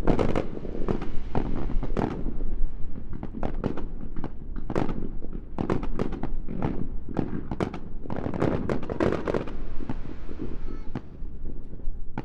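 Aerial fireworks shells bursting in rapid succession, with many sharp bangs each second and crackling between them.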